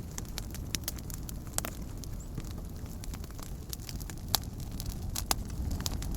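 Wood campfire crackling, with irregular sharp pops over a steady low rumble; the two loudest pops come about four and five seconds in.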